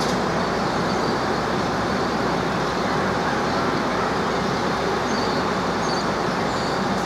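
An engine running steadily: a loud, even rumble that holds level throughout.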